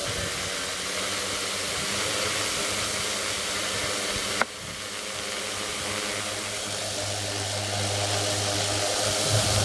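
450-size quadcopter's motors and carbon fibre propellers spinning at moderate throttle, a steady whir and hiss. The front left motor is suspected of a frictiony, grindy noise. A sharp click sounds about four and a half seconds in, after which the sound drops briefly and then builds again.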